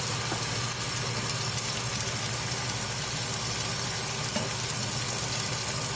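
Small vegetable pancakes (jeon) frying in oil in a nonstick frying pan on medium heat: a steady sizzle, with a steady low hum underneath.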